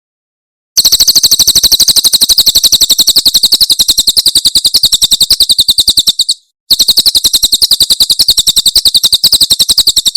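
Cililin bird singing its 'tembakan' song: a long, very rapid trill of sharp, high notes, about a dozen a second. It breaks off briefly just past the middle, then starts again for a second burst.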